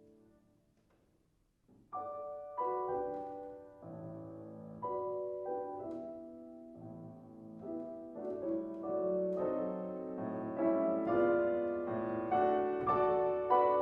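Piano playing classical music. A chord dies away into a pause of nearly two seconds, then the playing resumes and builds gradually louder.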